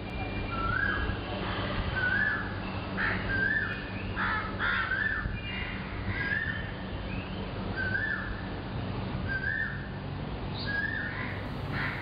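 Birds calling: one bird repeats a short rising call about once a second, with other calls mixed in over a steady low hum.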